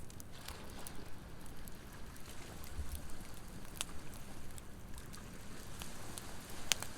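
Wood campfire crackling, with a few sharp pops, the loudest near the end, over a steady wash of ocean waves.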